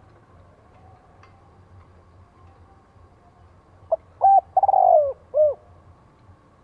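Spotted dove cooing one phrase about four seconds in: a short note, a quick pair, a long falling coo and a final short note.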